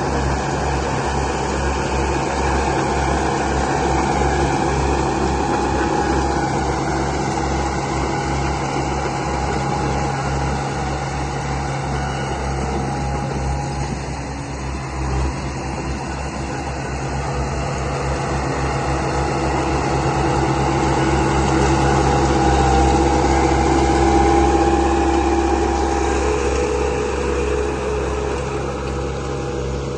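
Remote-control model construction vehicle running: a steady motor whine over a low, rapidly pulsing engine-like hum, the pitch drifting slightly and the sound swelling a little about two-thirds of the way through.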